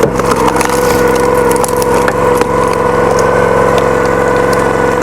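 Log splitter's small gas engine running steadily with an even whine, and a few short sharp cracks of wood splitting.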